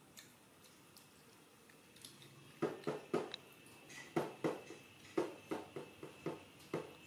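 Crunchy biting and chewing of corn kernels off the cob: quiet at first, then about a dozen short crunches, two or three a second, from about two and a half seconds in.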